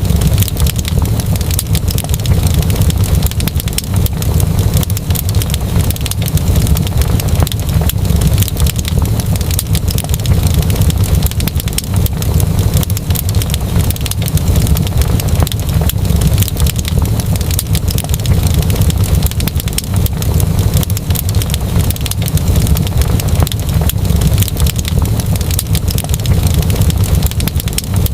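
Wood fire crackling with many small pops and snaps over a steady low rumble.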